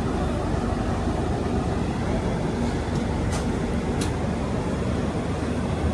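Steady running noise of a moving train, heaviest in the low end, with two faint clicks about halfway through.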